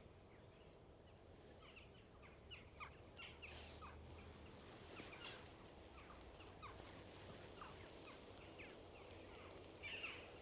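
A flock of jackdaws, many of them fledged young, calling faintly and repeatedly with short falling calls, a louder cluster near the end, over a low rumble of wind.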